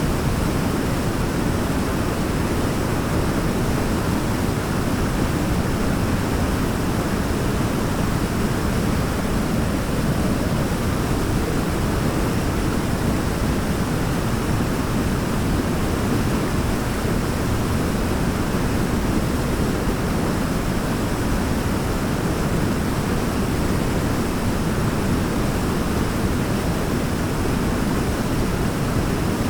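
Waterfall rushing: a steady, unbroken, deep water noise with no change.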